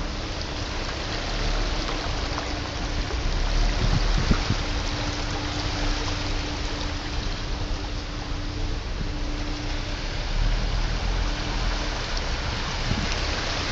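Heavy rain and water running in a steady rush across a flooded car park, with a faint steady hum underneath that drops out a few times.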